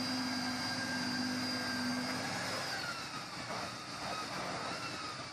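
Heavy military vehicle running under load: a steady rush of engine noise with a high whine that slowly falls in pitch in the second half, and a lower hum that drops away a little after two seconds in.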